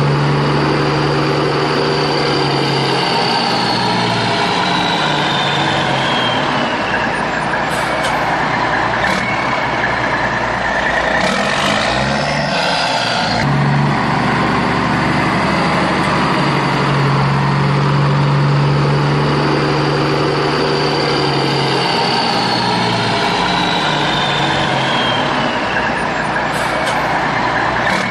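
Heavy vehicle engine running steadily with a low hum and a high whine that falls in pitch over a few seconds, plus a few clicks. The same stretch repeats about fourteen seconds later, as a looped engine track does.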